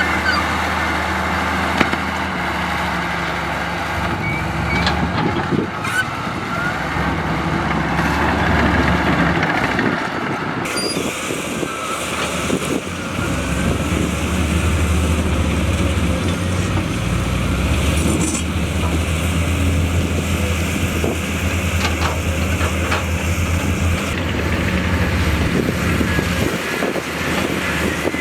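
Diesel engines of heavy earthmoving machinery working, the engine note rising and falling with load, with occasional faint clanks. The sound changes abruptly about ten seconds in.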